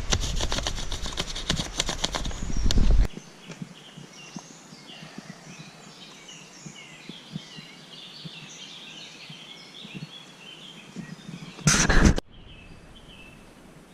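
Songbirds chirping and singing. Before them come about three seconds of rapid clicks and knocks over a low rumble, which stop abruptly; near the end there is a short, loud burst of noise.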